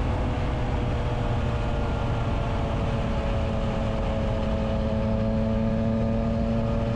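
Triumph Trident 660's inline three-cylinder engine running steadily through a Spark aftermarket exhaust with the dB killer fitted, its pitch easing down slightly.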